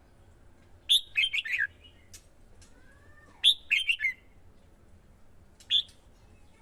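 Red-whiskered bulbul singing: short bursts of quick, sharp notes about a second in and again midway, then a single note near the end, with a faint gliding whistle between phrases.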